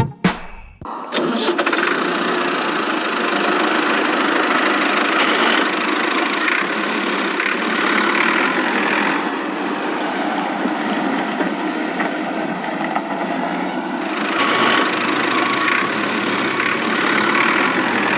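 A small motor runs steadily with a rough, noisy whirr, starting about a second in. A few short, faint beeps come near the end.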